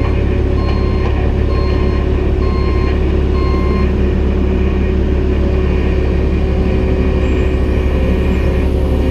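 CAT 313 excavator's diesel engine running steadily under load while its travel alarm beeps about once a second, the beeping stopping about four seconds in as the machine is driven onto the trailer.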